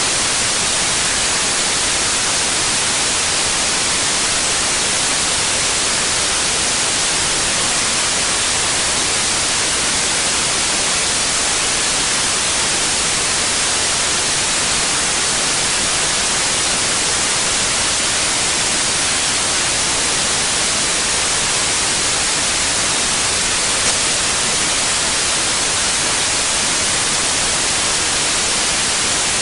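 Steady white noise: an even, hissing static with no pitch or rhythm, strongest in the treble and unchanging in level.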